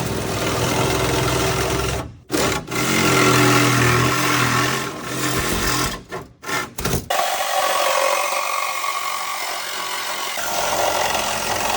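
Power tool work with rasping and rubbing on metal, heard in short clips. The sound cuts off abruptly about two seconds in and again around six to seven seconds. After that the low motor hum drops away, leaving a higher scraping noise.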